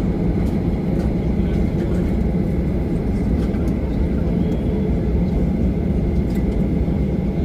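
Steady low rumble of a Boeing 737-800's CFM56 jet engines running, heard from inside the passenger cabin, with a few faint steady tones above the rumble.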